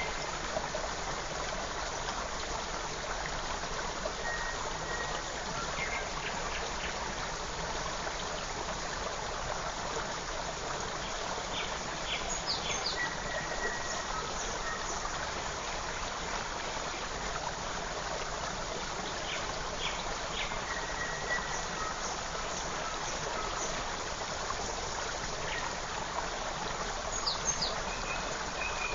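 Forest creek running steadily over stones, an even rush of water, with a few short, high bird chirps and whistles scattered over it.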